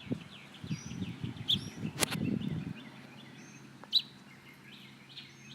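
Sharp, high bird chirps, loud ones about a second and a half and four seconds in, over many fainter calls; the chirping is taken for a fallen fledgling calling for its mother, with its mother partly answering. Rustling and handling noise with a sharp knock in the first half.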